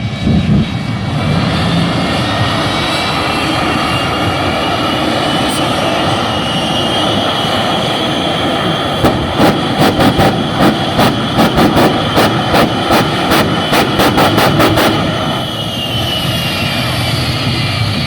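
Shockwave jet truck's afterburning jet engines running with a loud roar and high whine. From about halfway through they give a rapid string of sharp bangs for some six seconds, typical of afterburner pops from raw jet fuel lit in the exhaust. Near the end the whine falls in pitch as the engines ease off.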